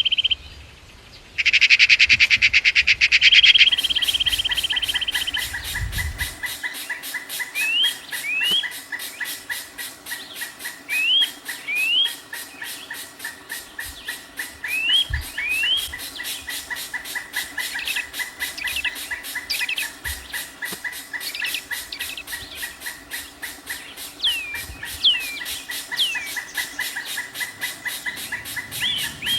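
Birds calling: a loud, rapid buzzing trill for the first few seconds, breaking off briefly and resuming, then short rising chirps, often in pairs, over a steady fast-pulsing chorus.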